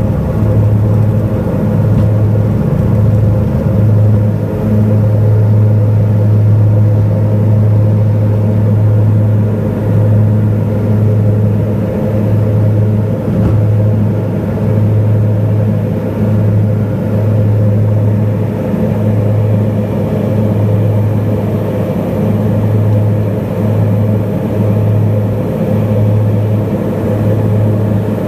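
Tour plane's propeller engine running steadily: a loud, continuous drone with a strong low hum.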